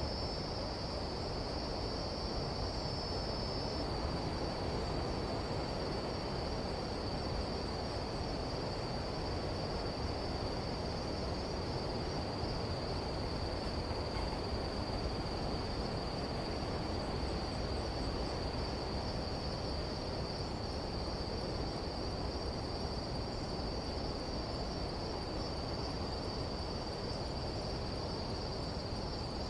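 Nighttime tropical insect chorus: a steady, continuous high-pitched trill, with a second, slightly higher trill that stops about four seconds in, over a low steady rumble.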